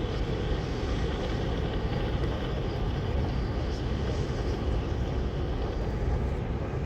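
Steady low engine drone of a ship passing close by.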